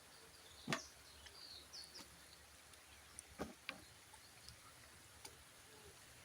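Faint outdoor ambience with a few sharp knocks, the loudest about a second in and two more a little after the middle, and brief high bird chirps early on.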